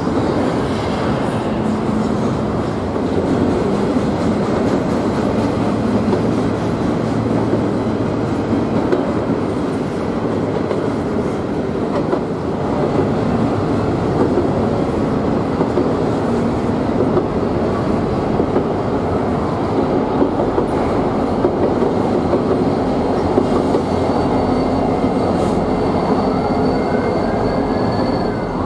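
Freight train passing at steady speed, wheels rumbling and clattering on the rails, with its diesel locomotives among the cars. About three seconds before the end a siren starts, rising in pitch, dipping briefly and rising again.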